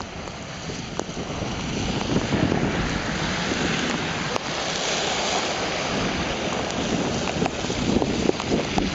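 Strong blizzard wind gusting against the camera microphone: a loud, rushing buffet that grows stronger about two seconds in and surges in gusts.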